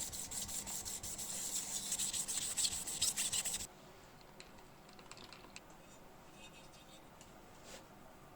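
Fast, scratchy rubbing, like hand sanding or scrubbing a part with an abrasive. It runs for about three and a half seconds and stops abruptly, followed by a few faint ticks.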